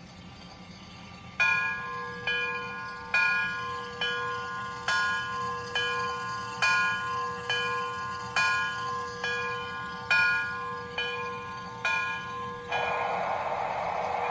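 Locomotive bell from the Proto-Sound 3.0 sound system of an MTH 3-truck Climax model steam locomotive, ringing with about one swinging strike a second and alternating louder and softer strikes. It stops near the end and a steady hiss of steam takes over.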